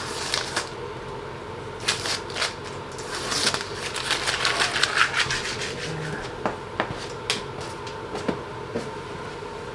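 Handling noise: scattered clicks and knocks, with a few seconds of dense rustling crackle in the middle, over a faint steady hum.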